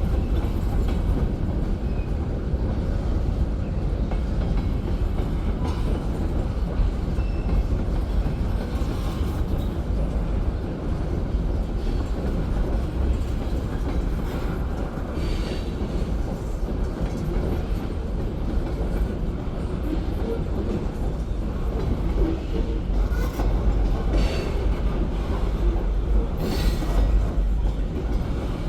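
Freight train rolling past: a steady low rumble of the cars on the rails, with a few brief, faint wheel squeals.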